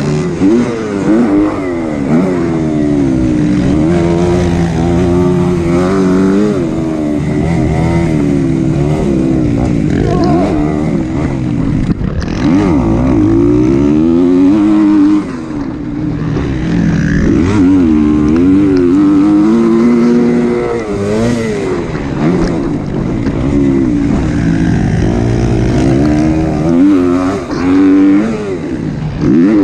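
Kawasaki KX250 four-stroke motocross bike engine revving hard and backing off again and again as it is ridden around the track, pitch rising and falling every second or two.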